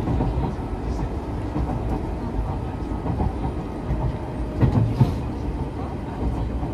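Running noise inside a Nagano Electric Railway 3500 series (ex-Eidan 3000 series) electric train under way: a steady low rumble of wheels and running gear, with a few louder knocks of the wheels over rail joints about five seconds in.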